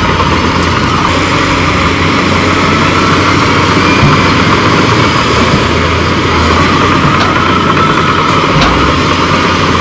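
Heavy diesel earthmoving machinery running steadily, with one or two light knocks near the end.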